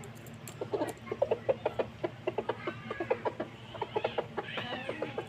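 Chickens clucking: a fast run of short clucks, several a second, then a few longer, arching calls near the end.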